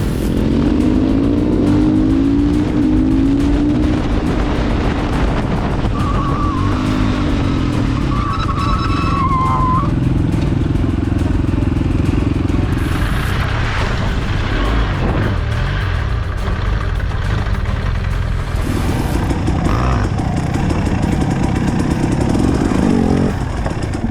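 Motorcycle engine running hard, its pitch rising and falling with the throttle, with a wavering higher whine for a few seconds about a quarter of the way in.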